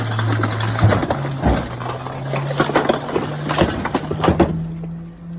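Garbage truck compactor crushing a kitchen stove: many sharp cracks and crunches over the truck's steady low hum, which steps up in pitch. The crunching stops about four and a half seconds in while the hum carries on.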